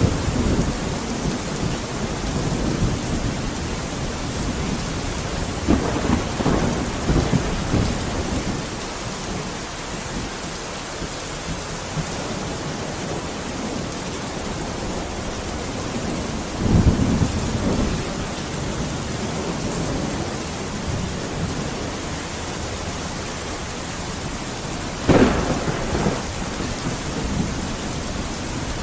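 Steady heavy rain with rolling thunder: rumbles swell at the start, about six seconds in and about seventeen seconds in, and a sharper, closer clap comes about 25 seconds in.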